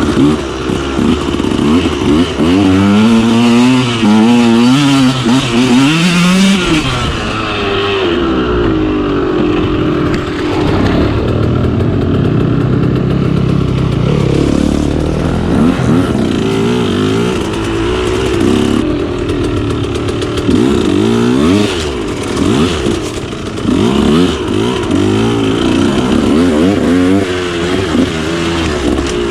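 2013 KTM 125SX's two-stroke single-cylinder engine revving up and down over and over as the dirt bike is ridden.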